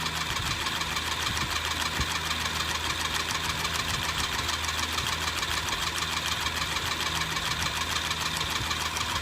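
A motor or engine running steadily, with fast, even ticking throughout.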